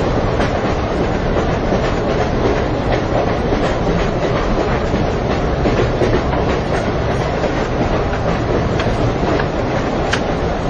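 Sound of a train carriage running on rails: a steady rumble with faint clacks of wheels over rail joints, heard as if riding inside the train.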